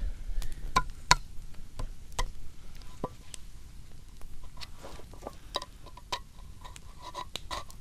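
A tin can of beans being opened: irregular sharp metallic clicks and ticks, a few a second, some with a brief ring.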